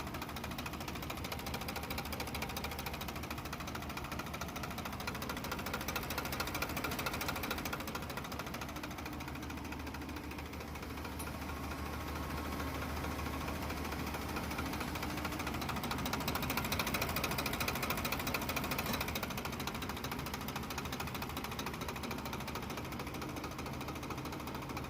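Farm tractor's diesel engine running steadily with a fast, even knock, growing a little louder twice.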